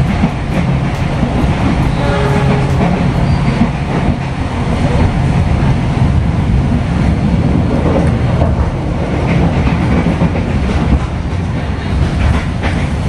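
Passenger train running, heard from inside an executive-class carriage: a steady low rumble of the wheels on the rails, with scattered clicks from the wheels over the track.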